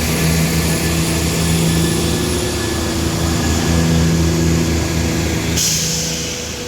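CrossCountry Class 170 Turbostar diesel multiple unit pulling away from the platform, its underfloor MTU diesel engines running under power with a steady low throbbing note. A short hiss cuts in near the end.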